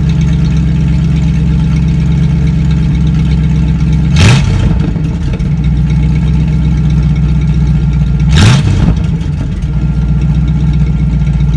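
Ford F-250 engine idling through an open exhaust with the muffler and catalytic converter cut off, blipped in two short revs about four seconds apart.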